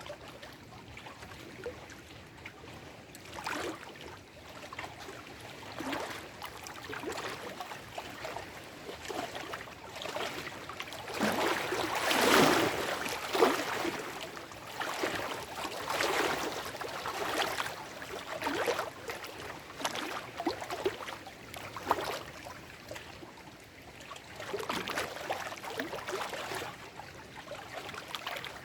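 Small lake waves lapping and splashing over shore rocks in an irregular run of splashes. A few louder ones come close together about twelve to fourteen seconds in.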